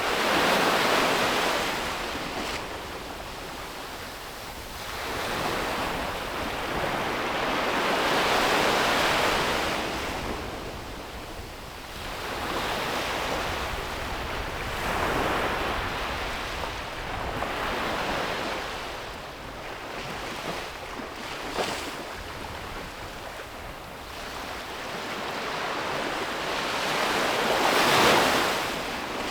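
Ocean surf breaking and washing up a beach, rising and falling in surges a few seconds apart. The loudest wave breaks near the end.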